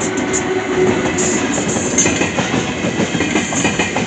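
ICE high-speed train's coaches rolling past close by, the wheels giving a quick, irregular clickety-clack over the track that grows busier about two seconds in.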